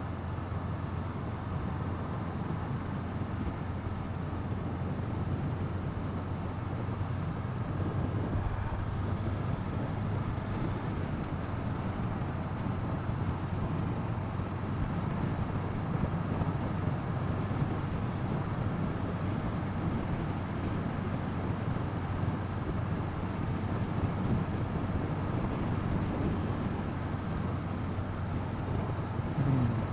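Wind noise rushing over the microphone of a moving motorcycle, with the 2017 Honda CB500F's parallel-twin engine running steadily underneath. A brief change in engine pitch comes near the end.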